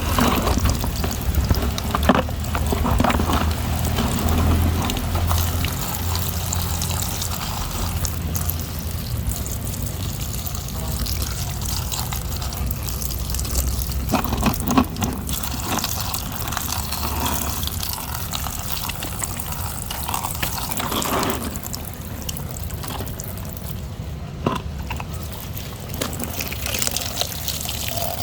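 Water running and pouring as muddy toy trucks are washed, with a few short knocks scattered through.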